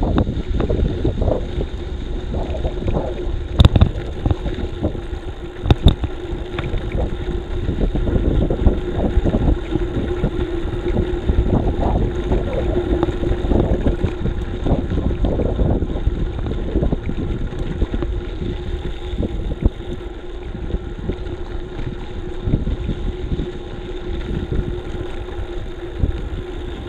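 Wind buffeting an action camera's microphone on a moving bicycle, with a steady low rumble and a faint steady hum. Two sharp knocks, about four and six seconds in.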